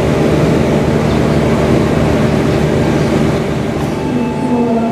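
Train running on the rails, a loud, steady, dense rumble of wheels and carriages. Near the end, a few clear ringing tones come in over the rumble.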